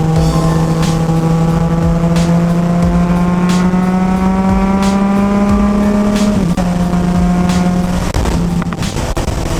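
2016 Yamaha FZ-09's inline-three running through a full M4 exhaust under way: the engine note climbs slowly and steadily for about six seconds, then drops a little and holds. Near the end it eases off slightly.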